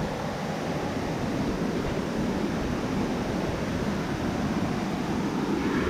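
Steady rushing noise of cascading water from a jungle waterfall or stream, even and unbroken.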